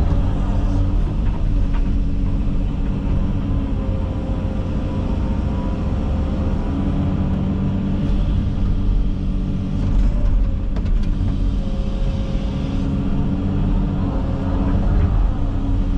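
Komatsu 360 excavator's diesel engine running steadily under working load, its pitch and note shifting in stretches as the hydraulics are worked, with a few sharp knocks and cracks.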